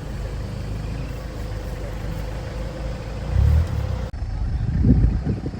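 A motor vehicle running: a steady low rumble with a faint hum that swells briefly about three seconds in. About four seconds in it cuts off abruptly, followed by a few low, muffled thumps.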